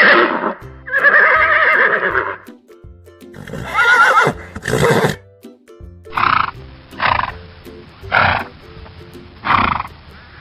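Horse whinnying: several loud neighs with a wavering pitch, then four shorter calls about a second apart.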